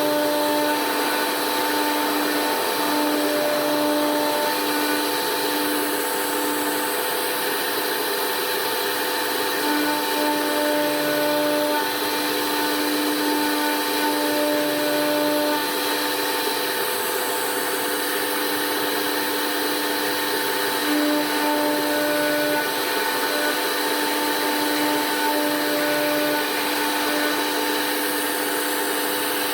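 Blue Elephant 1530 ATC CNC router running a cutting program: the spindle runs with a steady whine over cutting noise. Motor tones start and stop every second or two as the machine moves.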